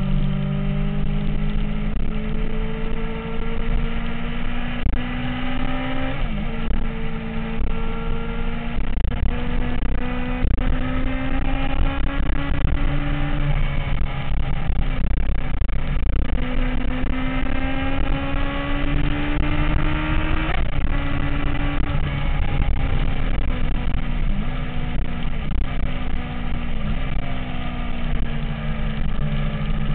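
MV Agusta F4 inline-four motorcycle engine running under way, its pitch climbing slowly and then dropping back sharply, several times over, as on gear changes.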